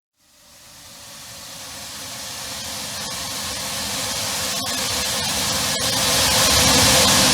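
Aircraft noise, a hissing rush that grows steadily louder over several seconds as the aircraft approaches, peaking near the end. A few faint clicks are heard along the way.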